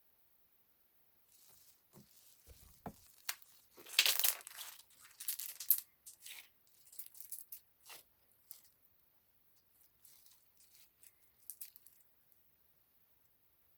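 Paper or plastic being handled up close, with intermittent crinkling and rustling and a longer tearing rustle about four seconds in. A few light taps come a couple of seconds in.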